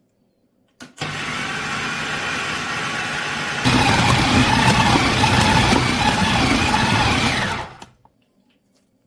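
Electric kitchen blender switched on with a click and running steadily, then louder with a wavering whine from a few seconds in. It is switched off about seven seconds later and winds down quickly.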